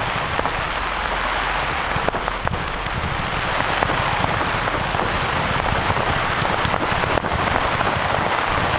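Fireworks crackling: a dense, continuous hiss of tiny pops with occasional sharper cracks standing out.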